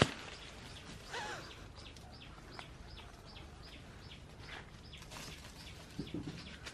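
A sharp knock at the start, then a small bird chirping over and over, about three short high chirps a second, with one falling call about a second in.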